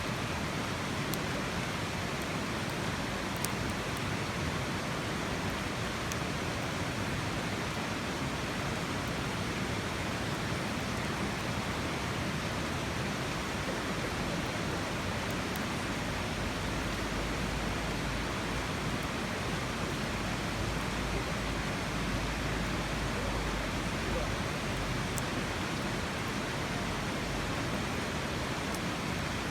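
Steady rushing noise, even throughout, with a few faint sharp clicks. A low rumble comes in about halfway through and fades out some ten seconds later.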